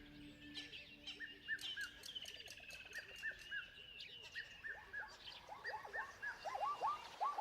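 Wild birds calling: a series of short repeated chirps, joined about two-thirds of the way through by a faster run of lower chirps that grows louder toward the end.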